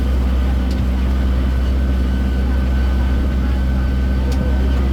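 Sightseeing road train running steadily along the street, a continuous low engine hum with a thin steady whine above it and a few faint clicks.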